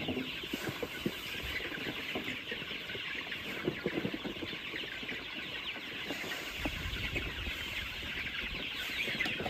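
A flock of chickens clucking at feeding time, a dense, continuous chatter of many short calls. A low rumble comes in briefly about seven seconds in.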